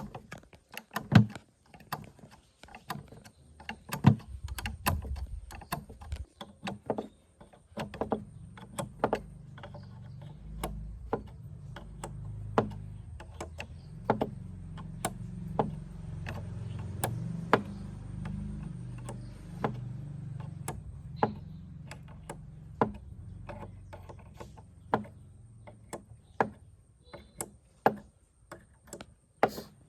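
Irregular sharp metallic clicks and knocks of tools and machine parts being handled during the mortiser's restoration work. A low rumble runs under them from about eight seconds in until about twenty-four seconds in.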